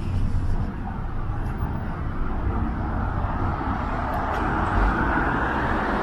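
City street traffic: a steady rumble of cars passing, with one vehicle's tyre and engine noise growing louder through the second half.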